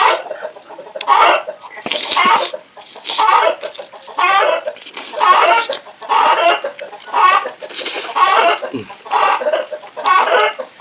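Chicken calling over and over, a loud wavering call about once a second.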